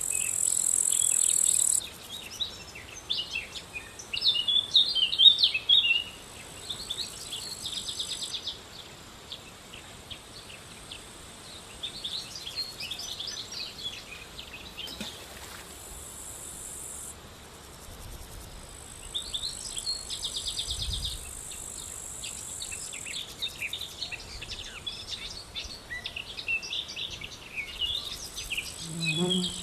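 High, steady insect buzzing that switches on and off in stretches of a few seconds, with birds chirping and twittering over it; the bird calls are loudest about five seconds in.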